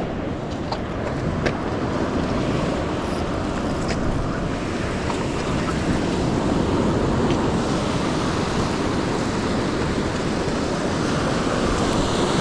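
Ocean surf washing steadily onto the beach, with wind noise on the microphone and a few faint clicks in the first half.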